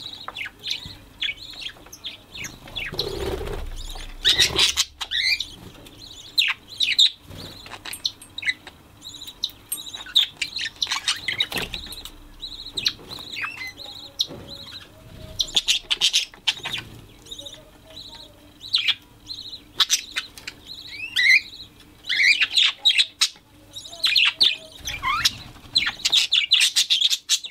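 Budgerigars chattering: a continuous warble of short, quick chirps and squeaky calls, with louder bursts every few seconds.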